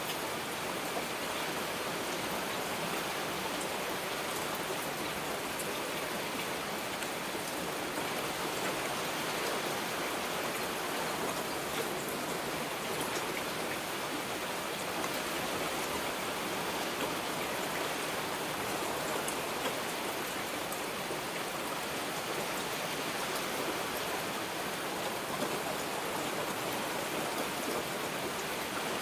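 Heavy rain falling steadily: a dense, even hiss with faint sharp drop ticks scattered through it.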